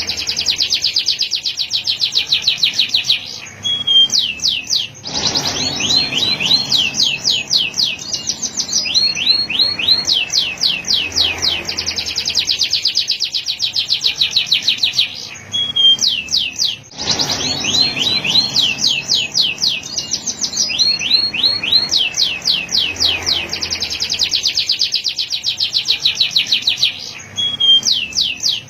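Male canary singing: long trills of rapidly repeated, downward-sweeping high notes, phrase after phrase, with a few short breaks between phrases.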